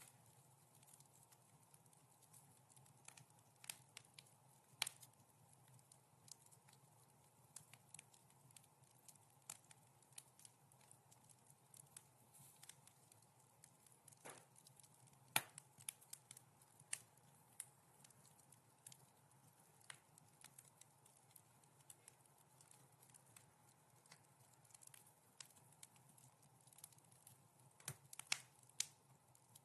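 Wood fire crackling softly: scattered sharp snaps and pops over a faint steady low hum, with one louder pop about halfway through and a quick cluster of pops near the end.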